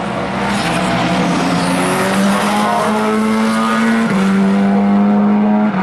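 Endurance race cars running at speed on the circuit, their engines holding high revs with the pitch stepping up and down through gear changes, including a sharp drop about four seconds in.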